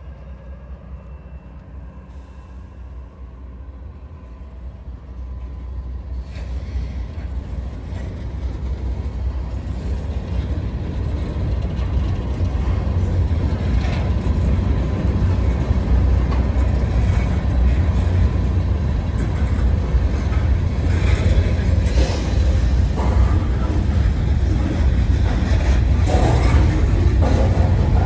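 Norfolk Southern freight train's covered hoppers and gondola rolling past: a steady low rumble of steel wheels on rail, building over the first dozen seconds and then holding, with rattling clacks from the cars.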